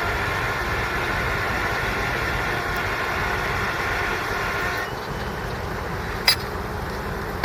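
Tow truck engine running steadily during a winch-out, with a steady whine over it that stops about five seconds in; a single sharp click comes near the end.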